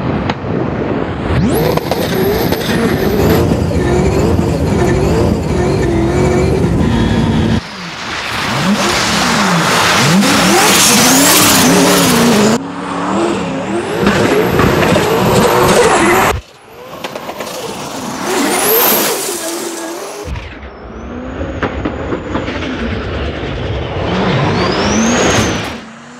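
Turbocharged V8 in a BMW E46 M3 revving hard while the car drifts, the engine pitch swinging up and down with the throttle, with tyre squeal. The sound cuts off abruptly between shots four times.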